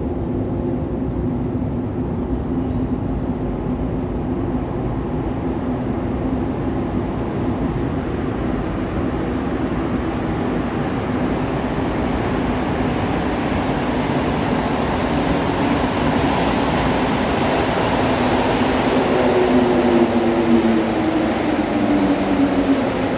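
Rubber-tyred Montreal Metro train running through a tunnel: a steady rumble with a pair of humming motor tones. The sound grows a little louder past the middle, and near the end the tones fall in pitch as the train slows.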